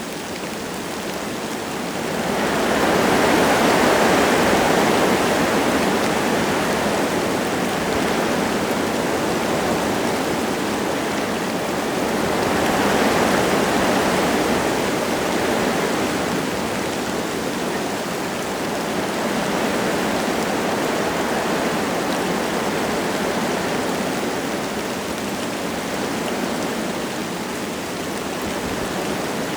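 Wind gusting through forest trees with light rain falling, a steady rushing noise. It swells into a strong gust about two seconds in and another about twelve seconds in.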